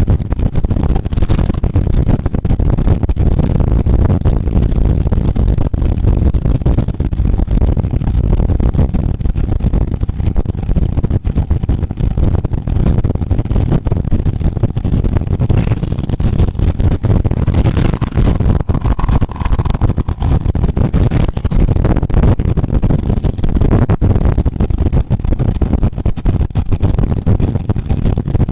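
Wind buffeting the microphone of a camera riding on a road bike at race speed: a steady, loud, low rumble that keeps fluctuating.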